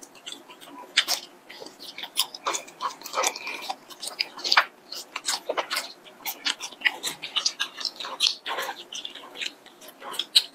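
Chewing and biting a chili-coated latiao (spicy gluten strip), with many irregular wet, clicky mouth sounds as the strip is drawn into the mouth and chewed.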